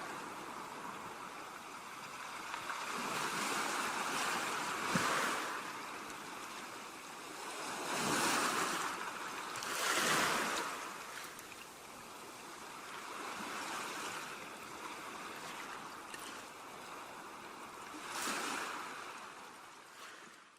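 Ocean waves breaking and washing on a beach, swelling and falling every few seconds, with a light wind. The sound fades out near the end.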